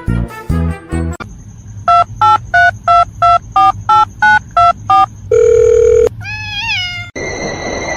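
Music cuts off, then a touch-tone phone keypad dialing about ten digits in quick succession, each a short two-note beep. It is followed by a steady tone and a brief warbling tone.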